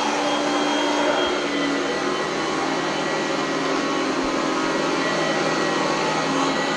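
Oreck Elevate Conquer upright vacuum cleaner running steadily, its motor making a dense even rush with a few steady whining tones over it.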